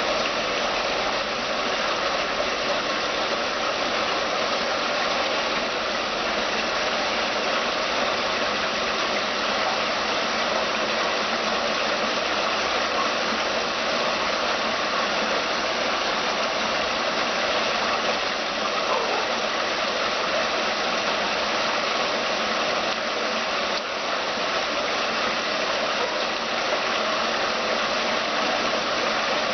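Water falling down the tiers of a stainless-steel stepped-cascade fountain: a steady, unbroken rush.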